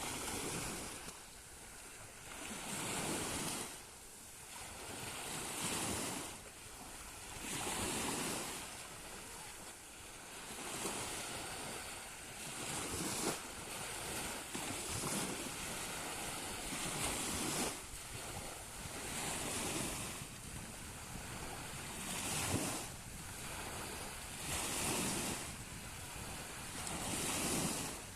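Small sea waves breaking and washing up the shore, one swell of surf about every two to three seconds.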